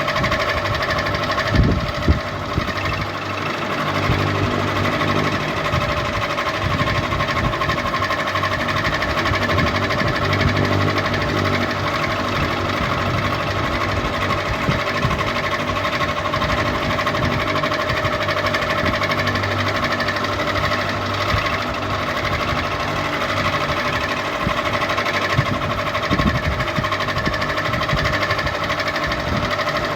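Electric ceiling fan running at a steady speed: a constant motor hum and whirr with an uneven low rumble beneath it.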